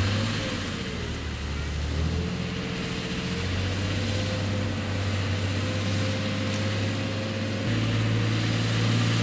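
Diesel engine of a narrow-gauge sugar cane railway locomotive running, its low note shifting in steps about two seconds in and again near the end, with a faint whine over it.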